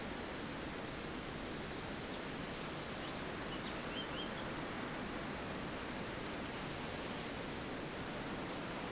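Wind blowing steadily through forest trees. A few faint, short bird chirps come a little past three seconds in.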